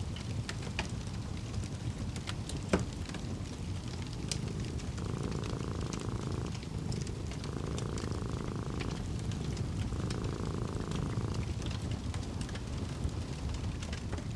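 A cat purring in three long breaths from about five seconds in, over a fireplace fire crackling with scattered pops and a low steady rumble. One loud pop comes about three seconds in.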